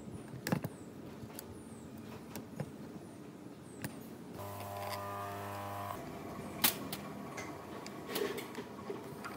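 Light metal clicks and taps of an Allen key and bolts as a chainsaw's muffler and bar-plate bolts are fitted and tightened, with one sharper click near seven seconds. A steady low hum starts about four and a half seconds in and stops abruptly at six.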